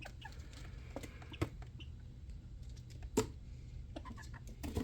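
Chickens pecking and scratching about, scattered light taps and clicks with two sharper taps, over a low steady hum.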